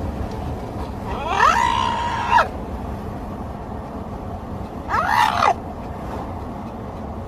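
Two loud screaming cries over a steady hiss. The first rises, holds a high pitch and drops away, lasting about a second and a half. The second, about five seconds in, is shorter and shaped the same way.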